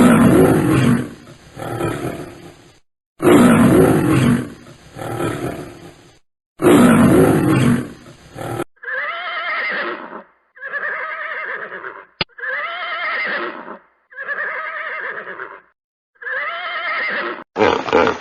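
A big cat roars three times, each roar deep and loud and lasting about two and a half seconds. These are followed by five shorter, pitched, wavering animal calls of just over a second each.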